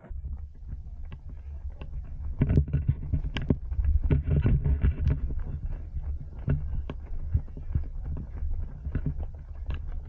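Running footsteps, irregular short knocks, over a steady low rumble of wind and body movement on a body-worn action camera's microphone. The rumble is loudest from about two to five seconds in.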